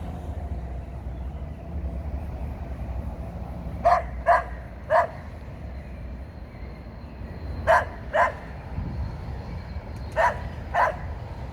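A tied-up dog barking in short groups: three barks, then two, then two, seven in all, over a steady low rumble.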